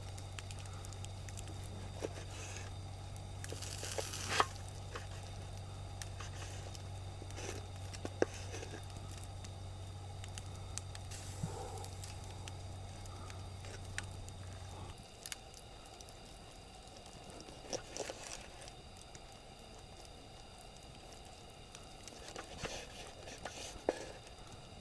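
Wood campfire crackling with sparse, scattered small pops and clicks. A low steady hum underneath stops about halfway through.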